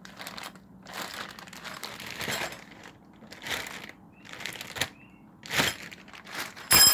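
Crinkling and rustling of packaging being handled, in a string of short bursts, with one sharp metallic clink near the end.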